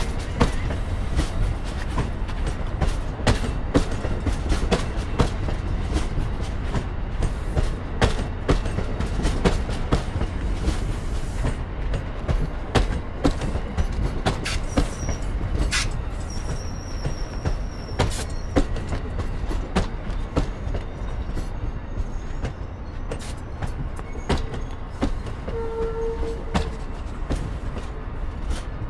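Passenger train rolling over the rails: a steady low rumble with many irregular wheel clicks over rail joints and switches, and a short pitched tone near the end.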